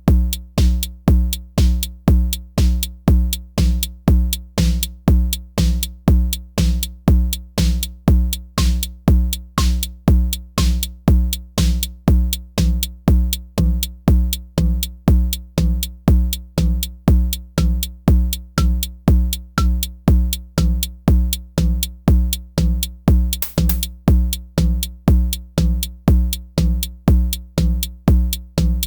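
Elektron Syntakt drum machine playing a steady pattern built on a deep kick drum, about two kicks a second, with pitched ringing tones and light high ticks over it. A short noisy high hit comes about 23 seconds in.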